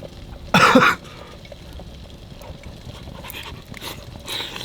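A short, loud vocal sound from a person about half a second in, lasting under half a second, followed by faint scattered small sounds.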